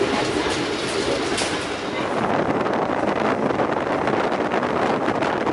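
Passenger train coach running at speed on the rails: a steady rumble and rush of wheels and track. About two seconds in the sound turns duller and denser, heard from the outside of the coach rather than inside the cabin.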